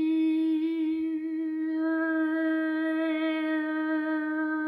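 A voice humming one long, steady note, its vowel colour shifting about two seconds in.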